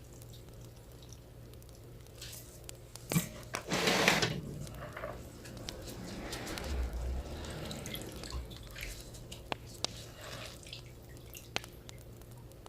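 Water dripping and splashing from rinsed, blanched mung bean sprouts as they are drained, with a louder splash about four seconds in and softer trickling a few seconds later.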